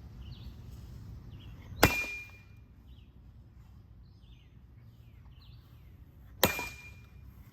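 Two sharp metallic clangs, each with a brief ring, about five seconds apart, from a cheap ceiling fan being smashed apart. Faint bird chirps sound in between.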